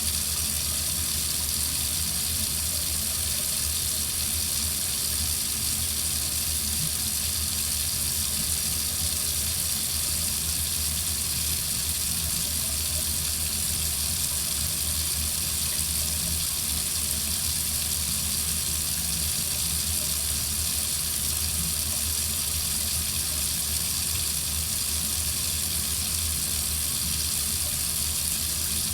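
Water faucet running steadily into a sink: an even, unchanging hiss with a low rumble beneath.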